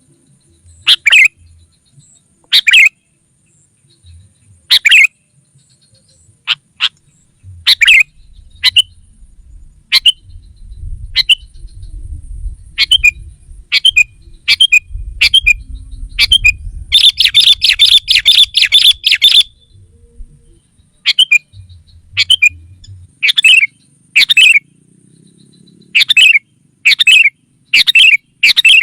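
Sooty-headed bulbul calling loudly: short sharp calls repeated every second or two. A few seconds of rapid, dense chattering comes a little past the middle. A faint low rumble runs underneath the middle part.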